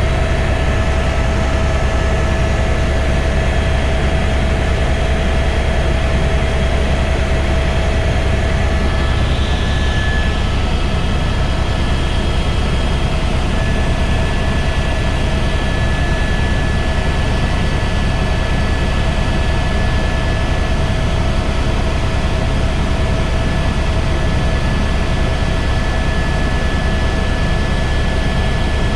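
Helicopter running steadily in flight: a heavy low drone with a steady high whine over it.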